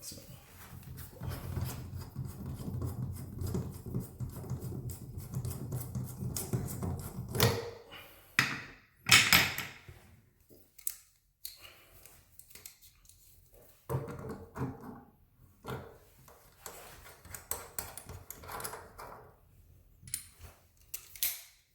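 Irregular clicks, taps and knocks of tools and metal faucet parts as a faucet is taken apart to reach and pull its hot-side cartridge. There is a rumbling, scraping stretch in the first several seconds, with the loudest knock about nine seconds in.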